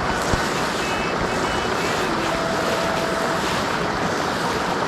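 Steady rushing noise of flowing trout-stream water, even and unbroken.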